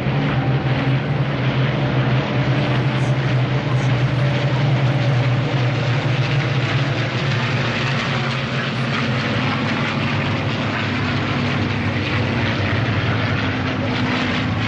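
Formation of P-51 Mustang fighters' V-12 piston engines droning steadily as they fly by, a loud, continuous low propeller-engine hum with a rushing noise over it.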